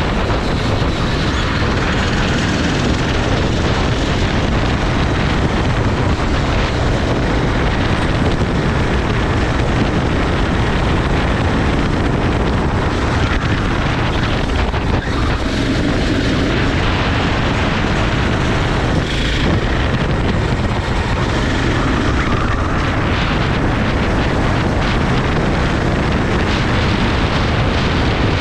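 Racing kart at speed on track, its engine noise mixed with heavy wind rush on the microphone, steady and loud throughout.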